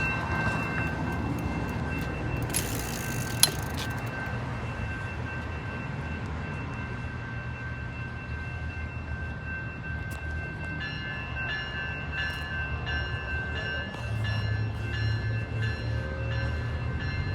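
A SMART diesel multiple unit running with a steady low engine hum that grows louder about fourteen seconds in. A brief hiss comes about three seconds in, and from about eleven seconds a warning bell rings in a steady repeat. No horn sounds.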